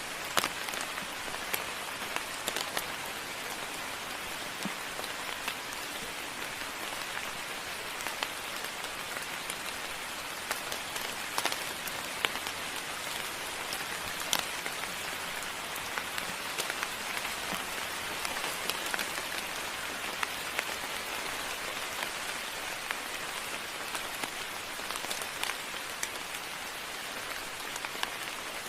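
Steady moderate rain falling, with scattered louder individual drops clicking close by.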